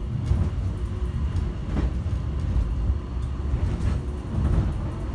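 Airport subway train running along its line, heard from inside the car as a steady low rumble with a few faint clicks and rattles.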